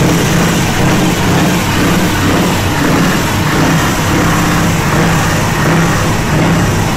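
Scania T 580 truck's V8 engine running loud at fairly steady revs, a deep even exhaust note with only slight rises and falls.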